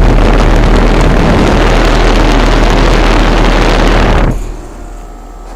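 Loud rushing air from a heat pump outdoor unit's fan buffeting the microphone, cutting off sharply about four seconds in and leaving the quieter steady hum of the running unit. The unit is running in heating mode with frost building on its coils.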